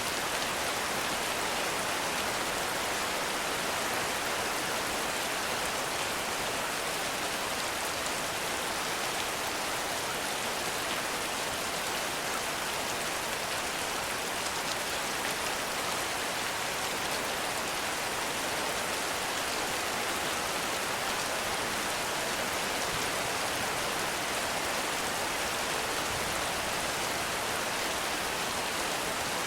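Heavy rain falling steadily: an even, unbroken hiss of countless drops, with no thunder or other events standing out.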